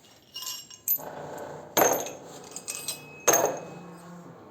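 Loose steel parts of a homemade pulley puller clanking and clinking as they are handled: four or five sharp metallic knocks, each with a short ring, the loudest two just before two seconds in and a little after three seconds in.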